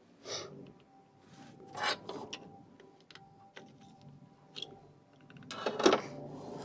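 Hand-crank sewing machine's crank assembly being refitted and tightened: a scattering of metal clicks and knocks, with a louder cluster of clanks about five and a half seconds in.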